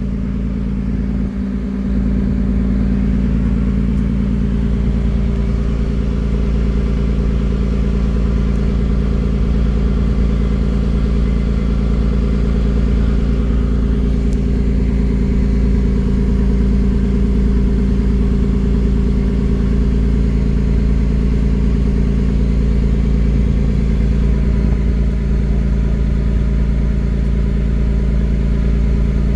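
Engine running steadily: a constant low drone with a deep rumble underneath.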